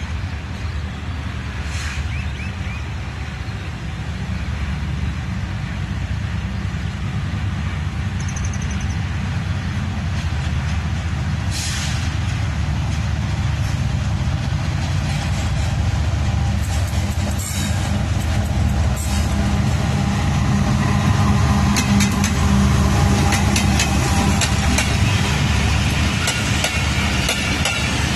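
Diesel-electric train locomotive running with a steady low rumble that grows slowly louder, with short air hisses at a few points. Dense rapid clicks, like wheels over rail joints, come in during the last several seconds.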